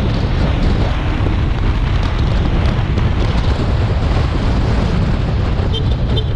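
Loud, steady wind roar buffeting the microphone, with a heavy low rumble, starting abruptly just before this.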